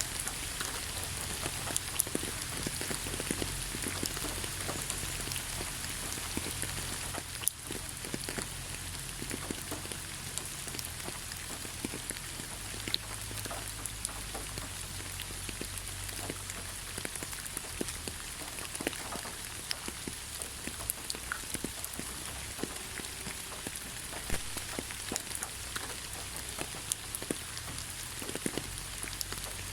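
Steady rain falling, with many separate drop impacts ticking on a hard surface through a continuous hiss.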